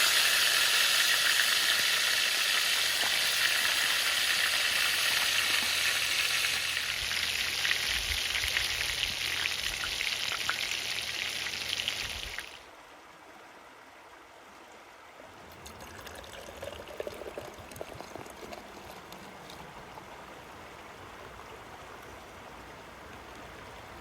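Pompano fish frying in hot oil, a loud steady sizzle that cuts off suddenly about halfway through. A much quieter stretch follows, with faint trickling and light crackles.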